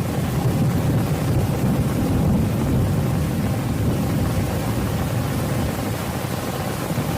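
Steady rain hiss with a low, continuous rumble underneath.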